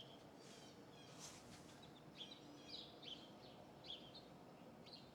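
Birds chirping faintly: a scatter of short, high chirps, roughly one or two a second, over a steady low hiss.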